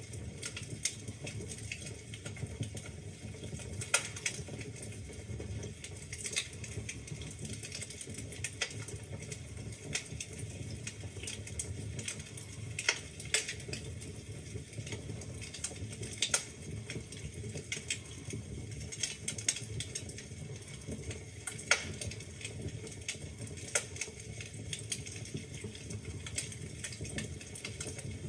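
Wood fire burning in a fireplace: logs crackling with irregular sharp snaps and pops over a steady low rumble of the flames.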